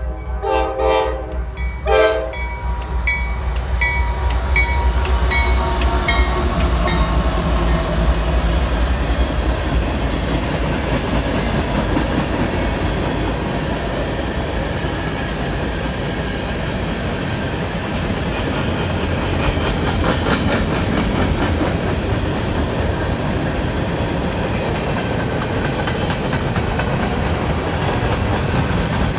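Freight locomotive horn sounding a few short blasts in the first two seconds, then a CSX mixed freight train passing: locomotive engines rumbling, then freight cars rolling by with wheel clickety-clack.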